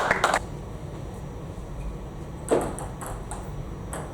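Table tennis ball hits: a few sharp clicks in the first half second as a rally ends. A lull follows with a low hall hum, broken by one short louder hit about two and a half seconds in.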